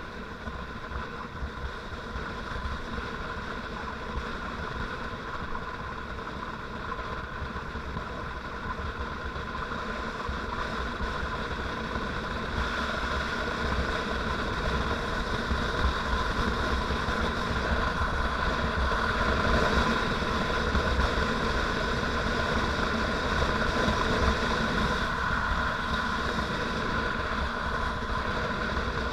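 Motorcycle engine running steadily while riding, with low road and wind rumble; it grows gradually louder through the first half.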